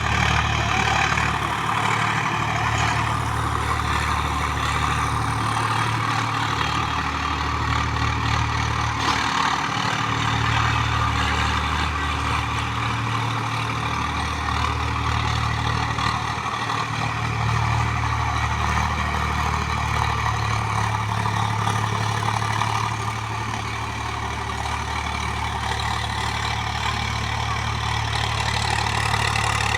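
Swaraj 744 XT tractor's diesel engine running steadily, its low hum dipping briefly every few seconds in the first half.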